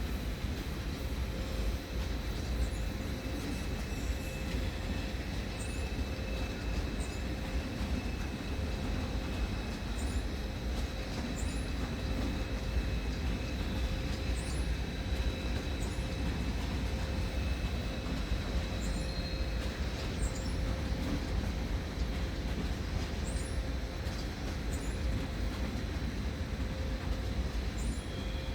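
Electric trains, an ICE 4 and a regional train, pulling out of a station: a steady low rolling rumble with a constant electric whine running through it, and faint short high chirps every couple of seconds.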